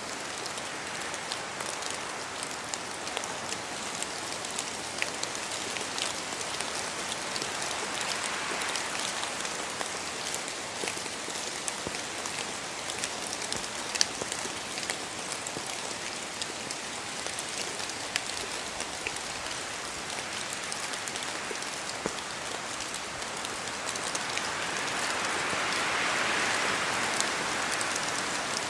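Steady rain in a forest, with scattered sharp ticks of drops falling from the trees. The rush swells with a gust of wind near the end.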